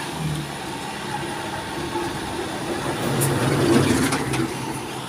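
Diesel truck engine labouring on a muddy climb, its steady note swelling in loudness for about a second and a half partway through, with a few short sharp sounds at the loudest point.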